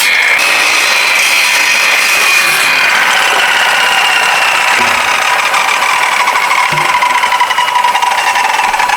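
Power tool cutting bamboo, a steady rasping run with a whine that slowly drops in pitch as it works through the cut.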